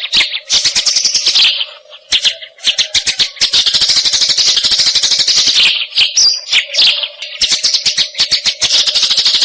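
Eurasian tree sparrows (burung gereja) chirping and chattering: a quick run of sharp chirps breaking into stretches of continuous chatter. A faint steady hum runs underneath.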